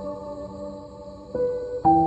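Slow, gentle piano music: a held chord fades away, a single note is struck about a second and a half in, and a new chord comes in near the end.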